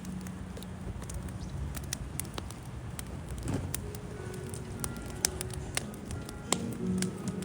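Burning firewood crackling in a campfire, irregular small snaps with a couple of louder sharp pops about five and six and a half seconds in.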